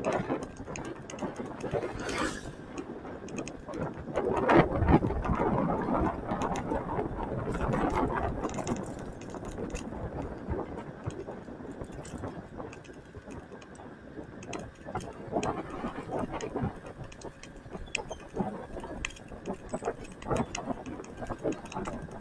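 Motorcycle engine running as the bike rides along, a dense rapid ticking, louder between about four and eight seconds in.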